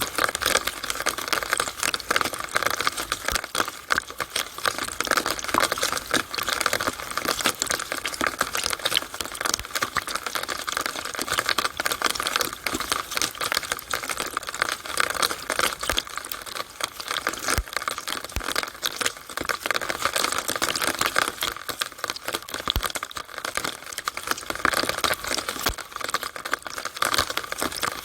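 Rainwater running through a downspout in the rain: a steady, dense patter of drips and splashes, heard as rapid irregular ticking.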